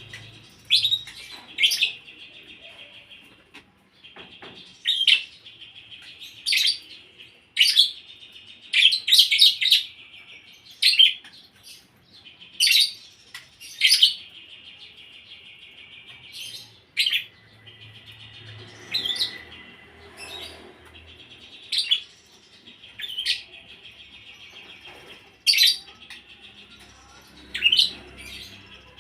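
Lovebird singing: loud, sharp chirps every second or two over a continuous buzzing trill. Its song is filled in with mimicked ciblek kali and prenjak tamu calls.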